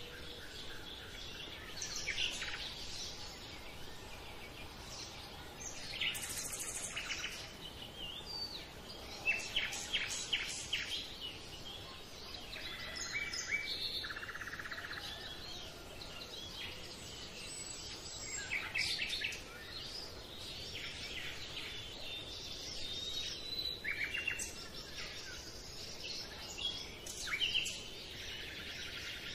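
Several birds chirping and calling in short notes and trills that overlap, over a steady background hiss.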